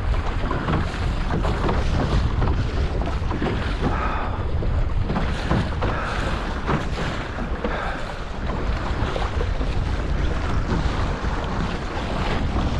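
Wind buffeting the microphone over water rushing and slapping against a sailing dinghy's hull while under way.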